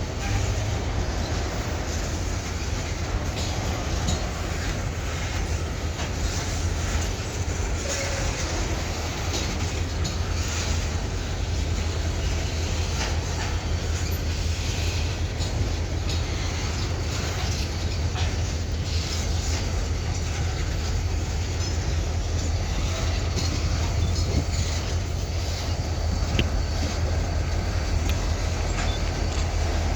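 EMD diesel freight locomotives working in a rail yard: a steady low engine drone, with scattered faint clicks and rattles from the train.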